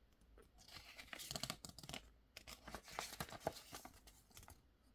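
Paper pages of a toy catalogue pamphlet being handled and turned: faint crackly rustling in two spells, the first from about half a second in, the second from about two and a half seconds in.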